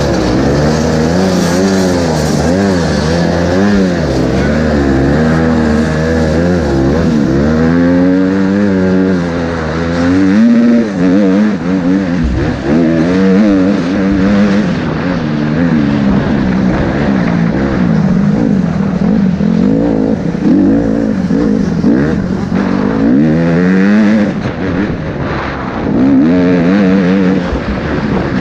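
Motocross bike engine revving up and down over and over as the bike is ridden, the pitch climbing and dropping with throttle and gear changes.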